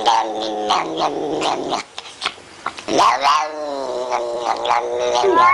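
Cat caterwauling: loud, wavering yowls with a rough growling edge. They break off just before two seconds in and start again about a second later.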